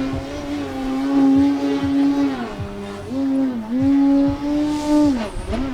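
Electric motor and propeller of an Extra NG 60-inch 3D aerobatic RC plane running at high throttle with a steady buzzing tone. The pitch dips briefly about halfway through, again a second later and near the end, as the throttle is pulled back and opened again.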